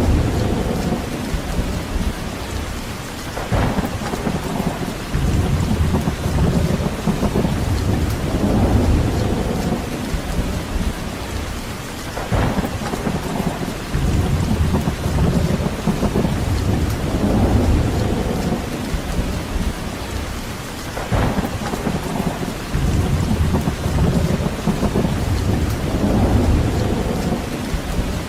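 Steady rain with deep rumbling swells that rise and fade every four to five seconds, and three brief crackles about nine seconds apart.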